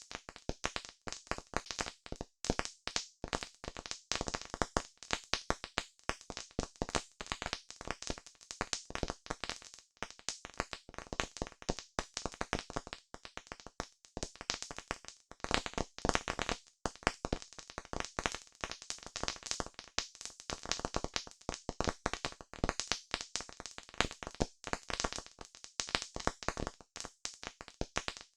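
Wood fire crackling, with dense irregular pops and snaps.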